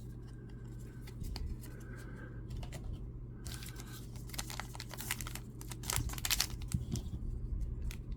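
Foil trading-card packs being cut open with scissors and handled: small snips, clicks and foil crinkling, sparse at first and busier from about three and a half seconds in.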